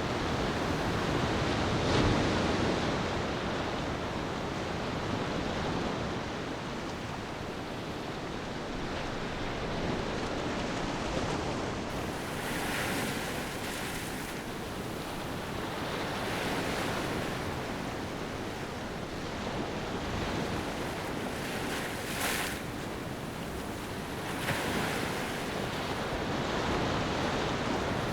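Ocean surf breaking and washing on a beach, the noise swelling and easing every few seconds, with hissing washes in the second half.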